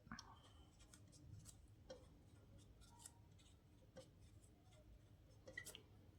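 Near silence, with a few faint taps and scratches of a pen writing or drawing.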